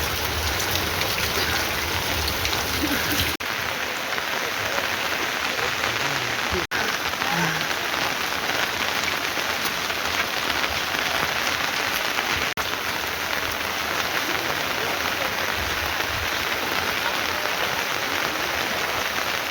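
Heavy rain falling steadily in an even hiss, broken off for an instant three times.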